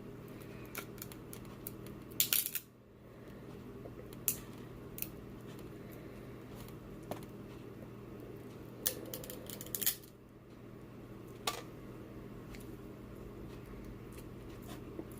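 Scattered sharp clicks and cracks, with small clusters about two seconds in and again near the ten-second mark, from crab and crawfish shells being handled and cracked close to the microphone. A steady low hum runs underneath.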